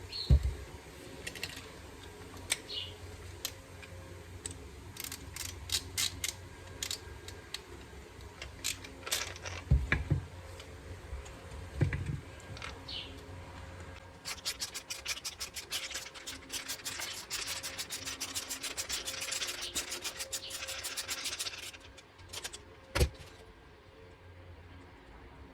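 Hand work on small carburetor parts: scattered clicks and knocks as parts are handled and set down, then about eight seconds of rapid rubbing or scrubbing strokes, with one more knock near the end.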